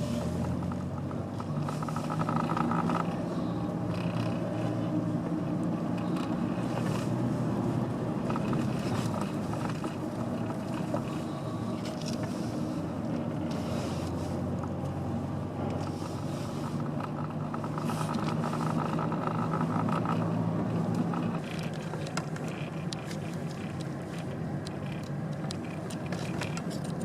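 A car driving along: a steady engine hum and road noise heard from inside the car.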